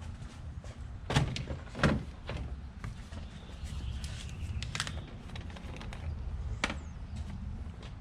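A few sharp knocks and clunks, the two loudest about one and two seconds in and lighter ones later, over a low steady rumble.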